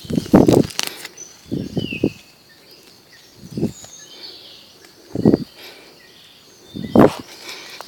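Birds chirping faintly in the background, broken by five brief loud thumps roughly every one to two seconds.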